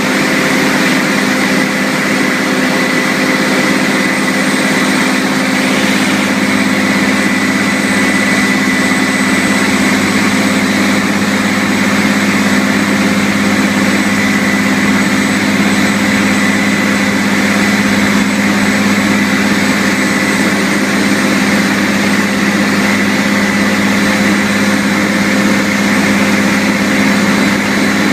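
Fire truck engine running steadily at one constant speed, with a thin, steady high whine above it.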